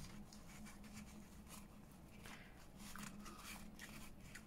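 Faint rustling and scratching of lace and paper being handled as the lace is fed through eyelet holes, over a low steady hum.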